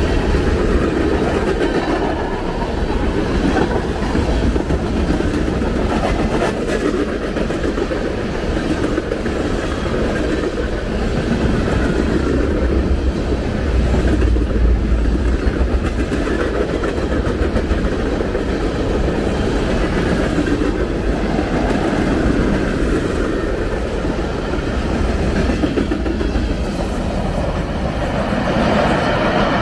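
Freight train of tank cars rolling past: steel wheels on rail making a steady, unbroken running noise.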